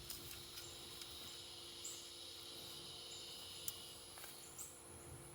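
Faint outdoor ambience: a steady high insect drone that fades out about four seconds in, with a few short high chirps and light ticks over it.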